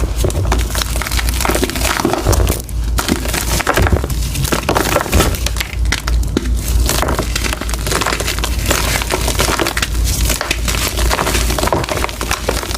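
Blocks of gym chalk, fresh and reformed, being crushed and crumbled in a dense, continuous run of crunches and crackles, with a low rumble underneath.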